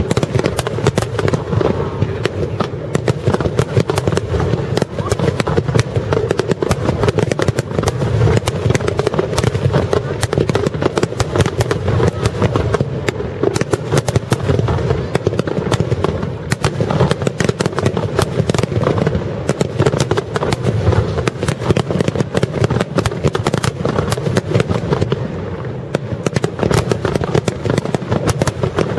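Aerial firework shells bursting in a rapid-fire barrage: many overlapping bangs and crackles with no break, over a continuous low rumble.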